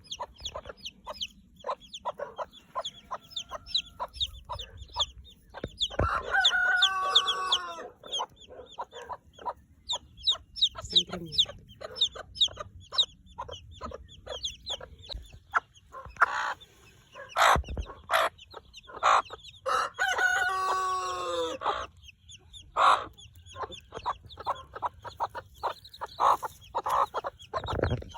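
Many broiler chicks peeping, a dense run of short, high chirps. Two longer, lower calls with a falling pitch stand out, about six seconds in and again about twenty seconds in.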